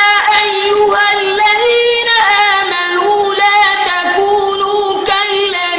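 A high voice chanting Quranic recitation in a drawn-out melodic style, holding long, wavering notes with ornamented turns between them.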